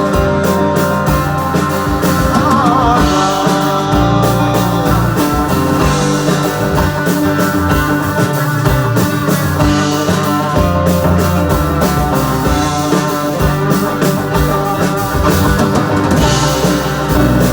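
Live band playing psychedelic-sounding rock, with a drum kit keeping a steady beat under sustained guitar and instrument tones.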